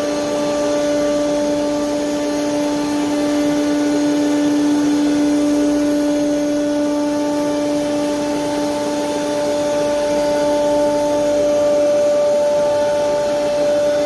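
CNC router spindle running at speed: a steady whine over a rushing hiss.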